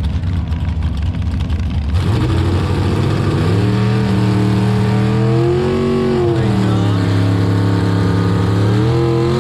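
Front-engine dragster's engine running at low speed, then revving up from about two seconds in, rising and falling in pitch once around the middle, holding a steady raised speed, and easing off near the end.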